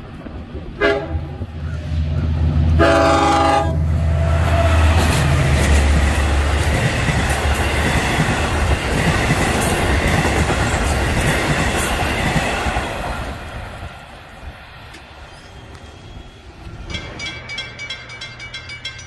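Long Island Rail Road train sounding its horn through a grade crossing: a short blast, then a longer one, the close of the crossing signal. The train then passes close by with loud wheel noise and clickety-clack on the rails, fading after about ten seconds. A rhythmic ringing begins near the end.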